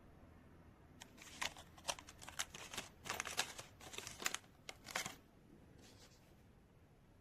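Handling noises: a quick, irregular run of sharp clicks and crinkles from about a second in until just past five seconds, then only faint room tone.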